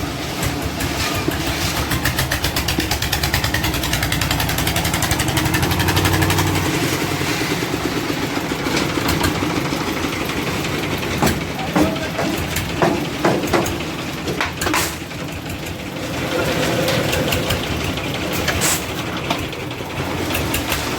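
Concrete mixer running: a steady engine hum with the turning drum rattling, and a handful of sharp clanks about halfway through.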